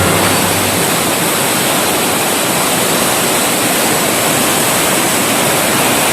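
Fast, turbulent mountain river rushing over rocks: a loud, steady wash of water noise.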